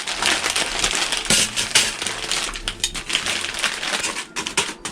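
Irregular clicking and clattering of small hard pieces being handled, with rustling in between.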